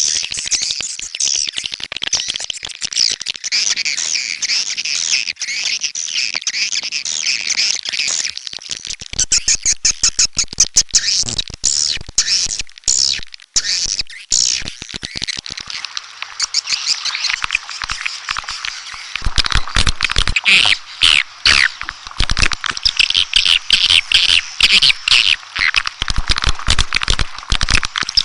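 A dense chorus of swiftlets twittering high and fast, with rapid clicking running through it. The clicking grows heavier about two-thirds of the way through.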